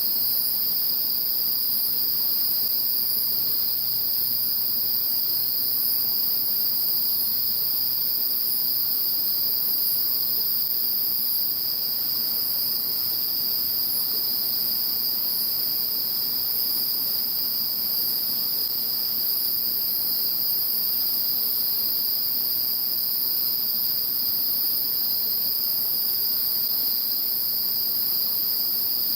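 Chorus of crickets and other autumn insects calling together: a steady high trilling band with a second, higher shimmering layer, unbroken throughout.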